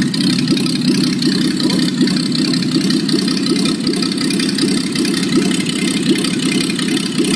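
Willys BF-161 F-head inline-six engine idling steadily, freshly rebuilt after a full overhaul.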